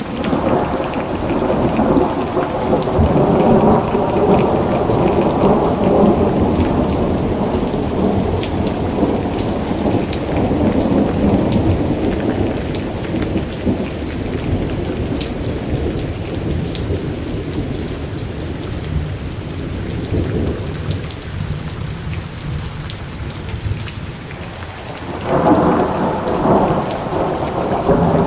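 Thunderstorm: steady rain with thunder rumbling. A long roll of thunder fades out over the first twelve seconds or so, rain carries on alone, and a fresh peal of thunder breaks in about twenty-five seconds in.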